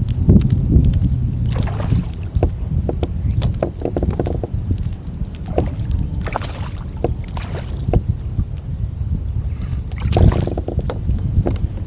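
Water splashing and lapping against a kayak, with steady wind rumble on the microphone and scattered small knocks and clicks; a few louder splashes come about two, six and a half, seven and a half and ten seconds in.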